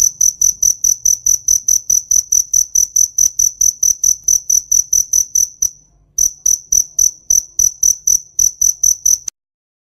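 A cricket chirping in a steady rhythm of about five to six high chirps a second. It pauses briefly about six seconds in, resumes, then cuts off suddenly near the end.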